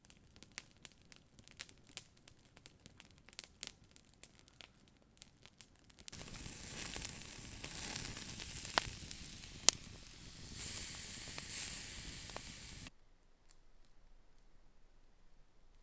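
Campfire crackling with scattered snaps, then from about six seconds in a louder steady hiss with a few sharp pops for about seven seconds, before dropping back to faint crackling.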